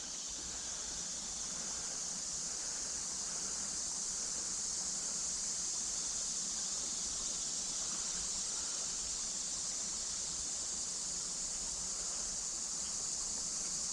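Cicadas droning steadily in high summer: one continuous, high-pitched buzz that holds level without a break.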